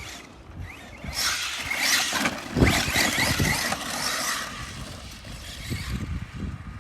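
Arma Mojave 6S RC truck driving on dirt: brushless motor whine and tyres throwing dirt, with one heavy thump about two and a half seconds in, then lighter knocks as it rolls on.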